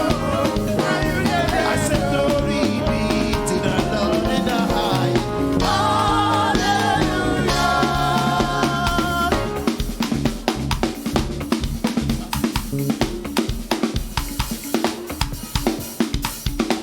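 Live church band music: melodic instruments over a drum beat, then about nine and a half seconds in the melody drops away and the drum kit carries on alone with quick snare and bass drum hits.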